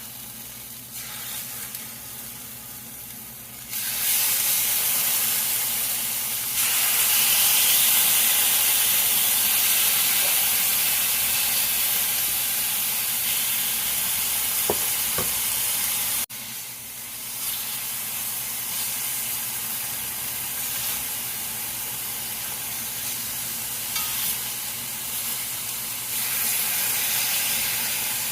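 Chicken tenderloins sizzling as they fry in a hot skillet. The sizzle jumps louder about four seconds in, breaks off abruptly about halfway through, and then carries on a little quieter.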